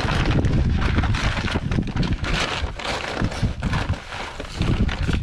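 Wind buffeting the microphone over crinkling and rustling as a bag of birdseed is opened and handled.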